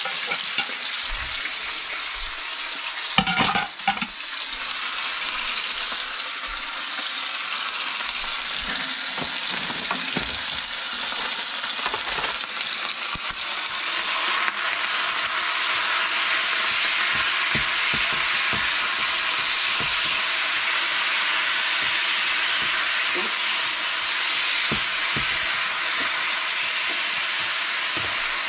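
Beef frying in hot oil in a large pot: a steady sizzle, with a brief clatter about three seconds in. The sizzle grows louder about halfway through.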